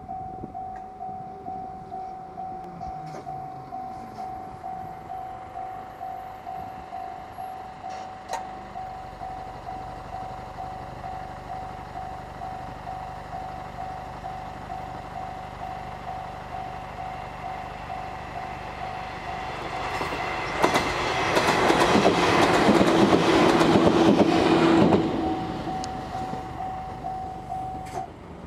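A Japanese level-crossing warning bell rings steadily about twice a second and stops just before the end. Meanwhile an Izuhakone Railway 3000 series electric train approaches and passes close by; its running noise and wheel clatter are loudest for about four seconds near the end.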